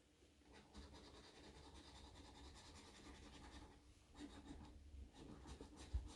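Faint, steady scratching as the coating is scraped off a scratch-off lottery ticket.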